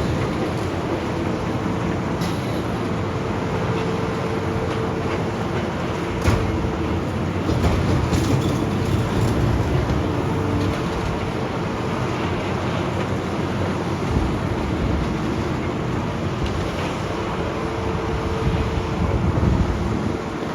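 Heavy demolition machinery, an excavator, running steadily with a constant engine and hydraulic drone. Occasional knocks and crunches of breaking material come through, the sharpest right at the start and about six seconds in.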